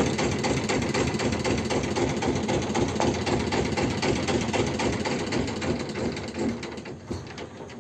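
Small river motorboat (pompong) engine running with a fast, steady knocking beat, growing quieter near the end.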